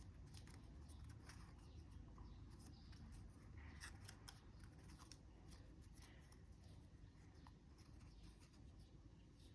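Faint crackling and rustling of a sheet of origami paper being handled and creased by hand, in scattered small clicks over a low room hum.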